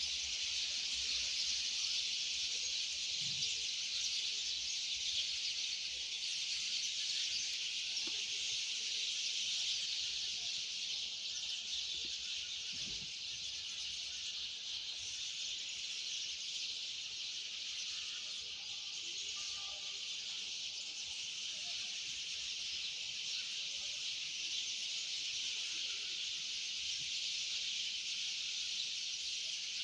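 A dense, steady chorus of insects, a high-pitched buzzing hiss that does not let up, with a few faint bird chirps underneath.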